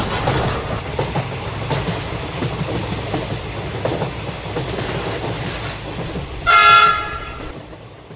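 Train running on the rails: a steady rumble with wheel clatter, then one short horn blast about six and a half seconds in. The rumble fades off near the end.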